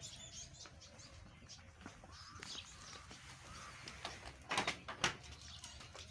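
Faint bird chirps, with two brief clattering knocks about four and a half and five seconds in.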